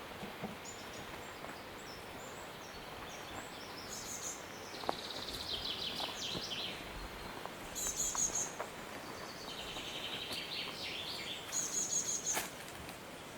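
Songbirds singing in forest: two rapid trilled phrases a few seconds apart, with short very high call notes between them.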